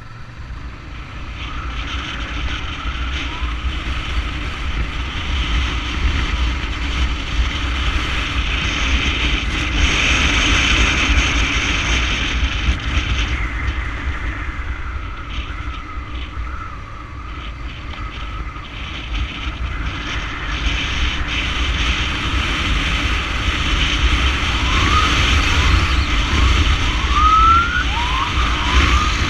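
Ambulance motorcycle siren wailing while riding, with rising sweeps loudest near the end, over a steady low rumble of engine and wind.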